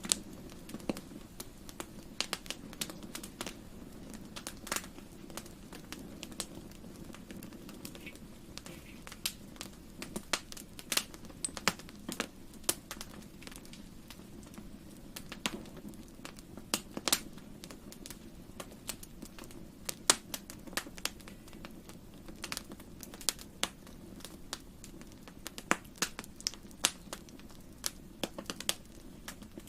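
Wood fire in a fireplace crackling, with irregular sharp pops scattered throughout over a low steady rumble.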